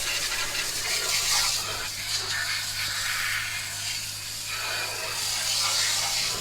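Pressure-washer spray hissing against an SUV's body and underside, rinsing off road salt, the hiss swelling and easing as the wand moves. A steady low hum runs underneath.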